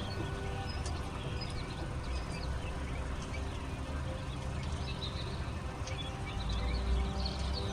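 Young chicks and quail chicks peeping, many short high chirps overlapping, over a steady low rumble.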